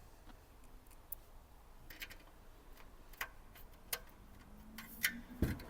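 Faint, scattered small ticks and clicks of a screwdriver driving screws back into the metal casing of a Vauxhall CD stereo head unit during reassembly.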